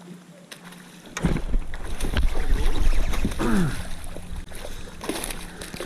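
Knocks and handling rumble on a fishing kayak, loud from about a second in, with a short falling creak about three and a half seconds in.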